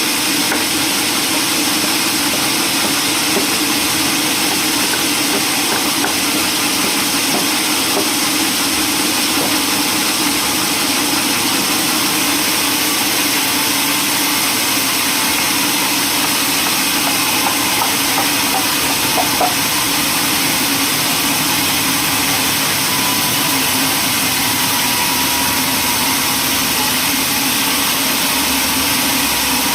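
Sawmill machinery running steadily: a constant mechanical engine-like drone that does not change in level.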